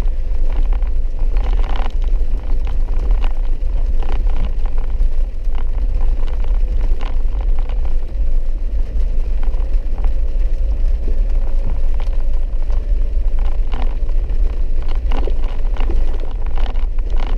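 Inside a vehicle driving a wet, muddy dirt road: a steady low rumble of engine and tyres, with frequent scattered sharp taps and knocks.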